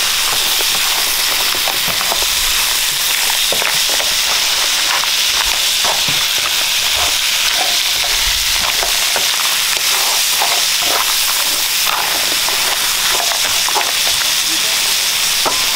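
Seafood and egg frying in a nonstick pan: a steady hissing sizzle, with occasional short scrapes and taps as a silicone spatula stirs and folds the food.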